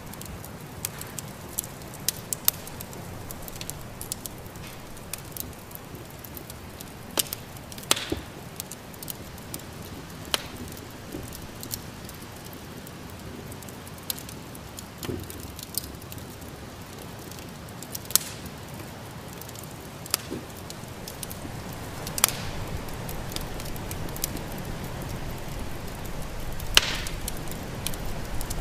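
Wood fire crackling in a fireplace, with irregular sharp pops and snaps over a steady low rush.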